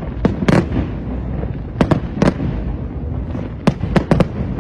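Fireworks display: irregular sharp bangs, some coming two or three in quick succession, over a steady low rumble.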